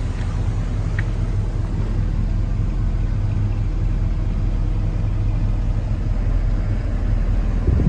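A 1976 Chevrolet truck's engine running steadily with a low rumble.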